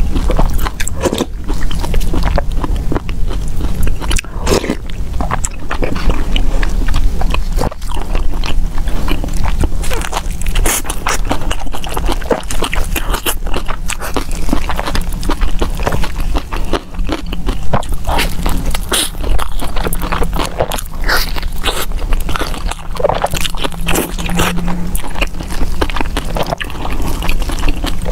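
Close-miked eating: bites into a purple-rice ball wrapped in nori seaweed and wet chewing, with many small mouth clicks and smacks over a steady low rumble.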